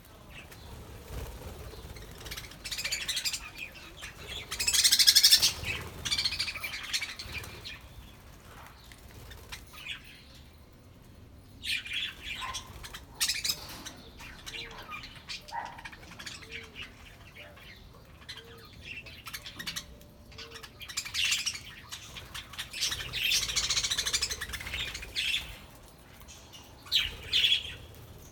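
A flock of budgerigars chirping and chattering in bursts, with wing flaps as birds fly about.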